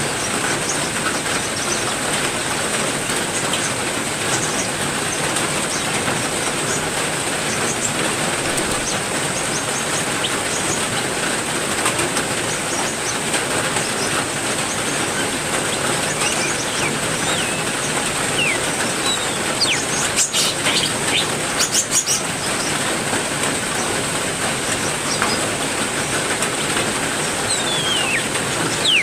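Heavy rain falling steadily on an aviary, with a few short bird chirps and a brief run of sharp rustling sounds about twenty seconds in.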